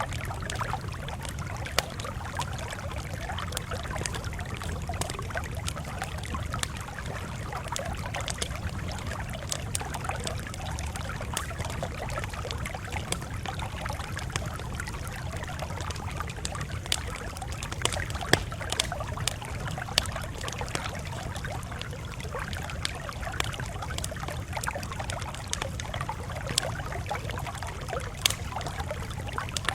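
Campfire crackling steadily over a low rumble of flame, with irregular sharp pops, a few of them louder in the second half.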